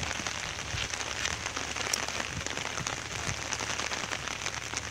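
Steady rain, with many small drops ticking rapidly on a plastic sheet worn overhead as a rain cover.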